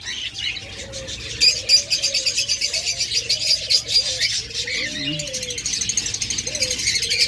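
A room full of cage birds: rapid, busy chirping and chattering that grows denser about a second and a half in, with doves cooing low underneath in short, gently gliding phrases.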